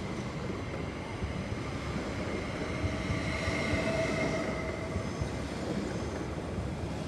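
SOB Traverso (Stadler FLIRT RABe 526) electric train running on the rails: a steady rumble with high tones that swell about three to four seconds in.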